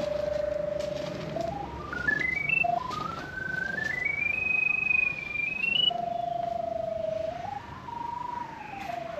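Drain locator's electronic signal tone sweeping over a buried sonde: a steady low note that climbs in steps to a high pitch and falls back, twice, then rises and falls more gently near the end, its pitch following signal strength.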